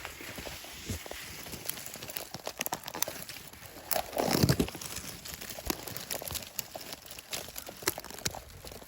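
Rustling and crackling of leaves and stems being handled and parted by hand, a dense run of small snaps and crinkles with a louder brushing rustle about four seconds in.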